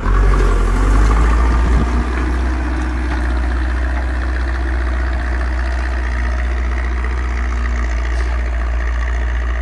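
Zetor 6245 tractor's four-cylinder diesel engine running steadily under load while pulling a plough, loudest in the first couple of seconds.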